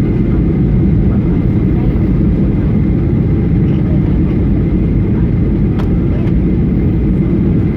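Steady low rumble of a Boeing 737's engines and rushing air heard from inside the passenger cabin, with a faint steady whine over it.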